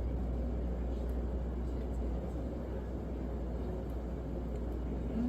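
Steady low hum with a faint even hiss of background noise, with no distinct events.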